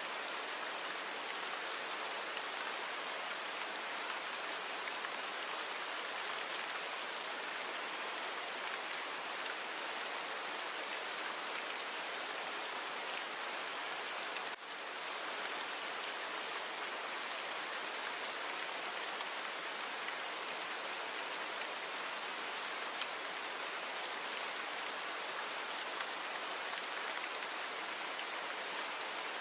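Steady, even rainfall, a continuous hiss of falling rain. The level dips for a moment about halfway through.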